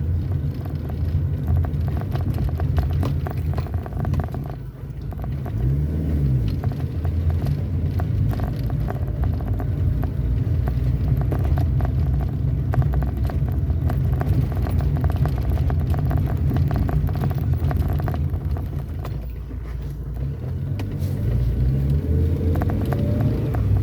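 A road vehicle on the move: a steady low engine-and-road rumble that eases briefly a few seconds in and again near the end.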